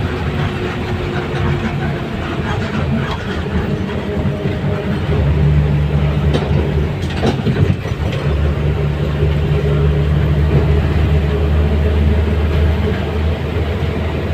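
Steady rumble of a moving road vehicle, with a low engine drone that grows louder about five seconds in and a few light knocks near the middle.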